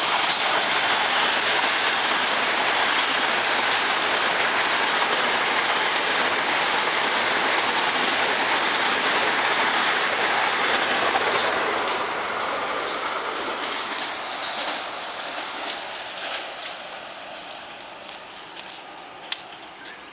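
Metro-North M8 electric multiple-unit train passing through the station at speed, a loud steady rush of wheels on rail. It fades from about twelve seconds in as the train moves away, with a few sharp clicks near the end.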